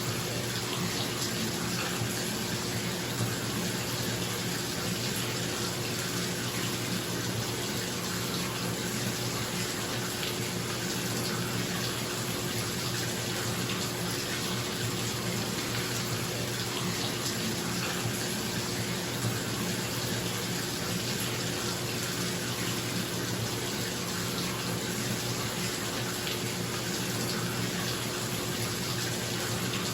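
Bathtub tap running steadily, pouring into the tub as it fills, with a bathroom exhaust fan humming steadily underneath.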